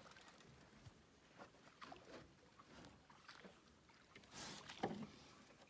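A small boat on the water just after it has come free: faint scattered knocks and water noise, with a short splash-like burst about four and a half seconds in and a thud just after.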